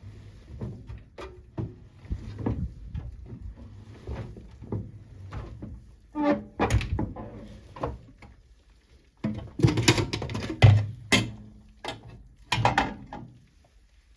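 Siemens WA4600 washing machine's drum turning a load of wet jeans: irregular thuds and sloshing over a low motor hum, which stops about a second before the end.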